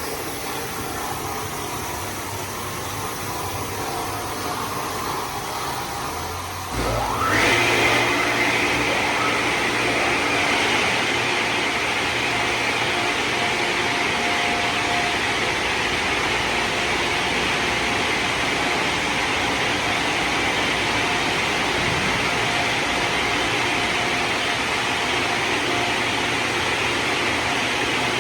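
LaserWash 360 Plus automatic car wash machinery running: a steady spray hiss, then about seven seconds in a motor spins up with a rising whine and a louder steady rush takes over.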